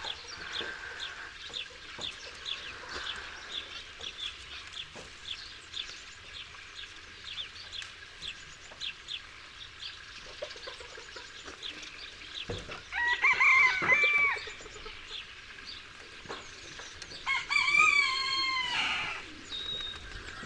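A rooster crows twice, two long loud calls about four seconds apart, over a steady run of short high chirps from the poultry yard.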